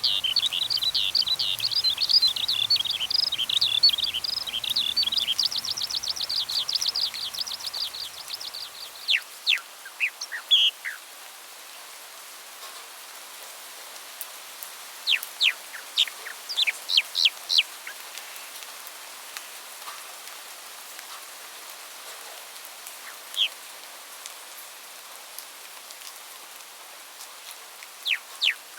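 Songbirds singing: a dense run of rapid, high chirping notes for the first eight seconds, then short groups of quick downward-sliding whistles separated by pauses, over a steady faint hiss.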